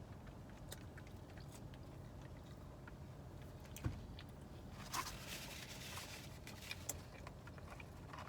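A person biting and chewing food close to the microphone, with small mouth clicks. There is a low thump about four seconds in, and a short crunchy bite a second later.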